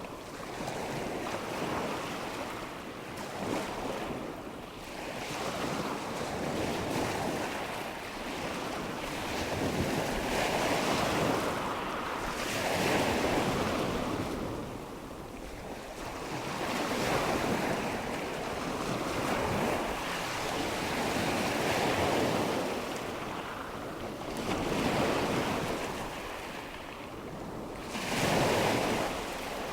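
Nature-sound ambience of rushing water and wind: a steady rush of noise that swells and fades in slow surges every three to five seconds.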